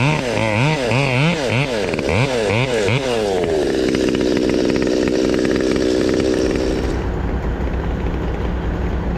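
Chainsaw revving up and down about twice a second while cutting through a treetop, then holding a steady pitch. About seven seconds in, the high end drops away and a steadier low engine drone continues.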